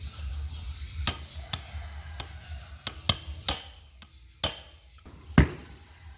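Hammer striking metal: about eight irregular taps and knocks, some ringing briefly, the hardest blow near the end.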